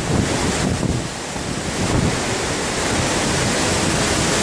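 Storm wind and rough sea, a dense steady rush of wind and waves, with gusts buffeting the microphone, heaviest in the first two seconds.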